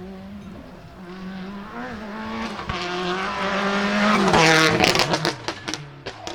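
A rally car approaches at full throttle, its engine note climbing and growing louder through the gears until it passes close by, followed by a burst of sharp pops and bangs as the sound falls away.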